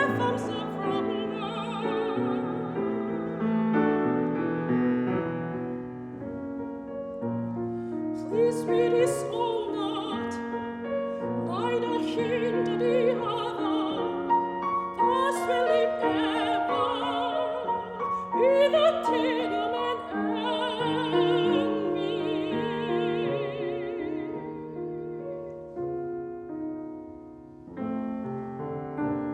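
Classical soprano singing an art song with vibrato, accompanied by piano.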